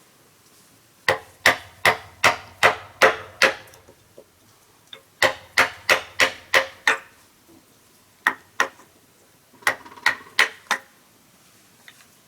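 A hand tool striking wood in runs of sharp blows, about two or three a second: seven, then six, then a few more after pauses.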